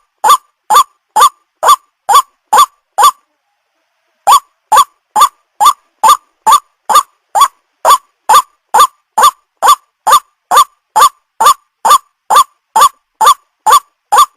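White-breasted waterhen's call played as a lure recording: a loud, short, honking note repeated about twice a second in identical copies. The calls stop for about a second near the start, then resume.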